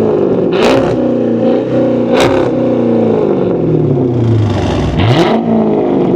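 2006 Dodge Charger with a straight-piped exhaust being revved in place: about three quick throttle blips, the engine note sweeping up sharply each time and falling back toward idle between them.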